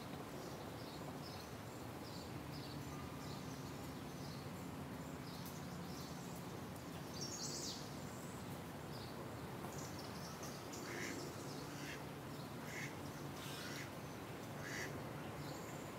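Birds chirping and calling in the trees: quick high chirps repeating through the first half, one louder call about halfway through, and a few sharper calls near the end, over a steady low hum.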